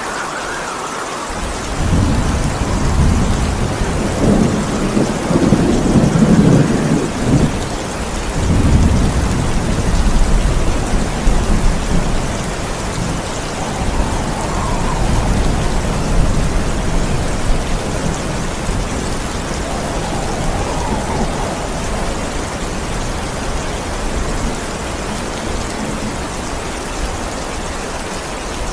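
Steady heavy rain with a long roll of thunder that rumbles in about two seconds in, is loudest a few seconds later and slowly dies away over the next twenty seconds.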